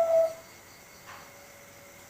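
Zebra dove (Bangkok-line perkutut, a young male) ending its song phrase: the last long, pure coo note trails off with a slight drop in pitch about a third of a second in. After that a faint steady tone lingers.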